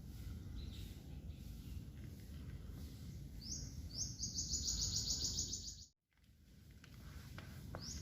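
A bird's high, rapid trill of evenly spaced notes starts about three and a half seconds in and runs for over two seconds, over a low, steady background rumble. The sound cuts out for a moment, and the trill starts again near the end.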